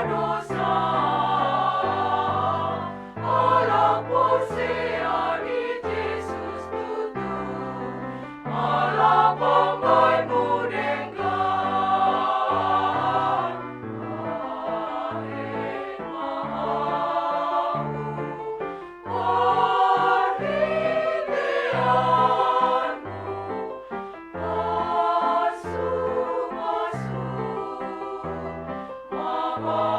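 Women's choir singing a church choral piece, in phrases of a few seconds, over steady low bass notes from an accompaniment.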